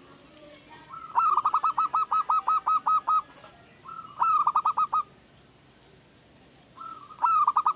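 Zebra dove (perkutut) cooing in rapid runs of short, clipped notes: a long run of about a dozen notes about a second in, then two shorter runs.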